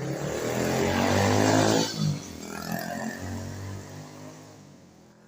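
A motor vehicle engine passing by, louder for the first two seconds and then fading away.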